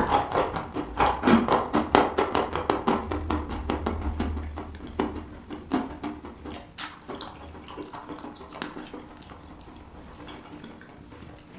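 Close-miked chewing of a mouthful of white eating chalk: a rapid run of dry crunches, dense at first and thinning out over the last few seconds as the chalk is chewed down.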